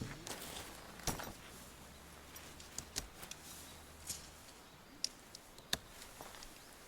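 A handful of light, sharp clicks and knocks at irregular intervals, about five in all, the strongest near the start and toward the end, over a faint steady hiss.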